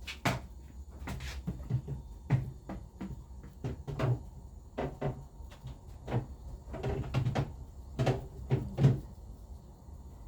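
A run of irregular short knocks and clacks from household objects being handled during chores, a dozen or more, with a cluster of louder ones near the end.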